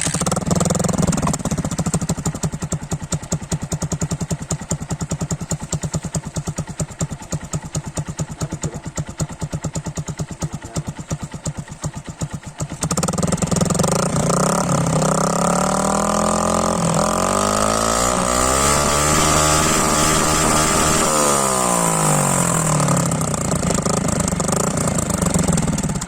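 Yamaha Sniper MX 135's stock single-cylinder four-stroke engine running through a 51 mm tube-type Charama full exhaust with its silencer fitted. It idles with a rapid, even exhaust beat, then about halfway through it is revved up, the pitch climbing and then easing back while the throttle is held.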